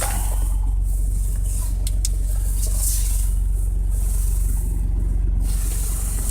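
Car engine idling, a steady low hum, with a fluctuating hiss of air above it.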